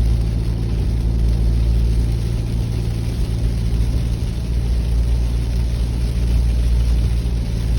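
Steady low rumble of a moving vehicle, engine hum under road noise.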